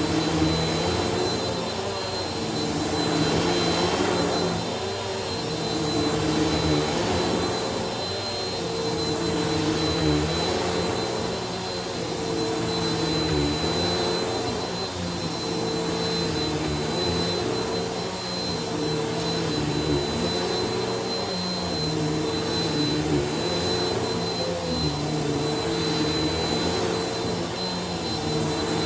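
Bissell vacuum cleaner running on a shag rug, pushed back and forth. The motor hum dips in pitch and swells in loudness every few seconds with each stroke.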